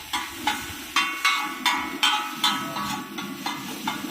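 Metal spatula clanging against a metal wok, about two ringing strikes a second, as noodles are stirred and tossed over the fire.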